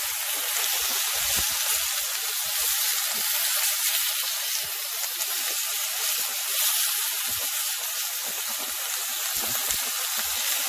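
Food sizzling in a hot pan: a steady hiss with scattered small pops and crackles.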